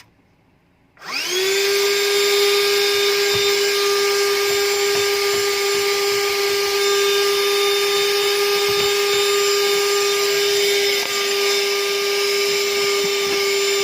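Bergman car vacuum cleaner's motor switched on about a second in, spinning up quickly to a steady high whine and running on loudly.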